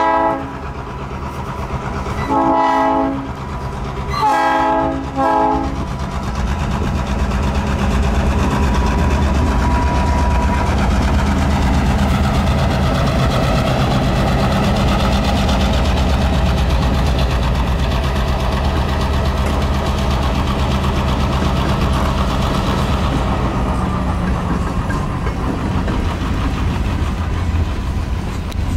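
Diesel locomotive horn sounding several blasts for a grade crossing, then an EMD SD38-2 and a GE B23-7 diesel locomotive running past close by, their engines droning steadily. Covered hopper cars start rolling past on the rails near the end.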